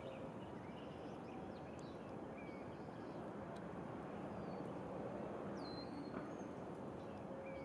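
Outdoor ambience: a steady low background hum with scattered short, high bird chirps.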